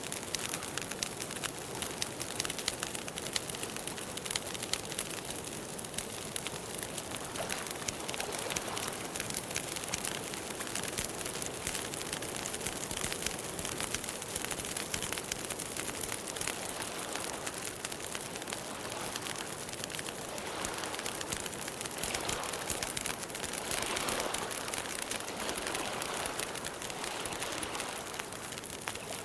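Campfire crackling: a dense run of small pops and snaps over a steady hiss.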